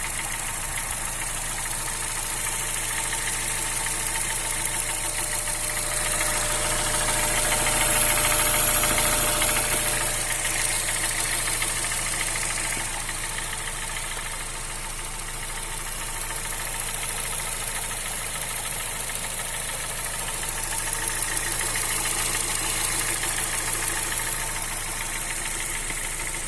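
Honda Fit 1.5 i-VTEC four-cylinder engine idling with a rapid, steady 'tec, tec, tec' ticking. Two valve adjustments have not cured the tick, and the owner rules out the A/C compressor bearing.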